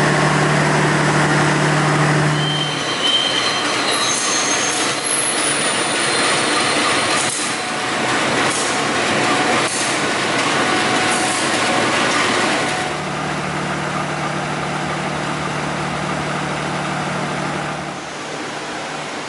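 Diesel locomotive moving coaches slowly in a station: thin, high wheel squeals on the rails and clicks over rail joints about once a second, over the steady hum of the engine. Later the movement noise stops and only the steady engine hum is left.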